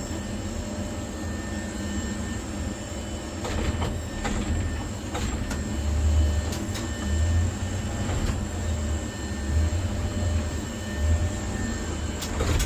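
Vehicle running, heard from inside: a steady low rumble that swells now and then, with scattered knocks and rattles.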